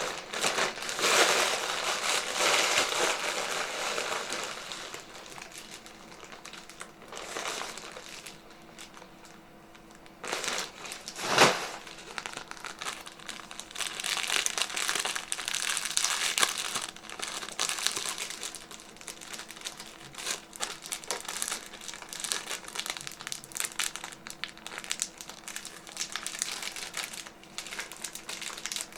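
Mylar foil balloon crinkling and rustling as it is handled and filled by a hand pump, with one sharp click about eleven seconds in.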